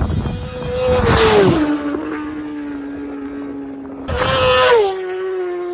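Two racing superbikes passing flat out, about a second in and again about four seconds in. Each engine note drops sharply in pitch as the bike goes by, then holds a steady lower note as it moves away.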